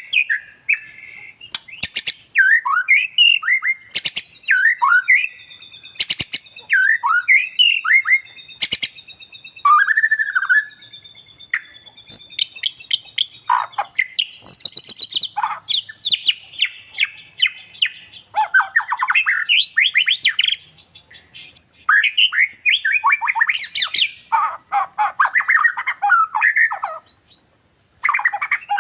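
Oriental magpie-robin (kacer) in full song, pouring out varied whistled phrases, rapid trills and harsh chatters in quick succession, with sharp clicks mixed in. A steady high hiss runs underneath.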